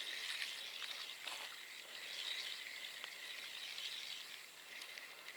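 Steady high-pitched insect chirring, with a few faint clicks.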